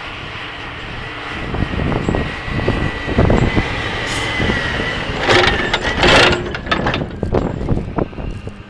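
Snow-plow truck running while plowing, with a thin steady whine over the engine and two loud noisy bursts about five and six seconds in.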